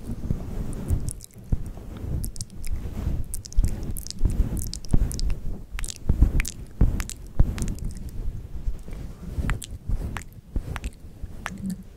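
Close-miked ASMR mouth sounds: irregular wet clicks and smacks of the lips and tongue, several a second, over a low rumble.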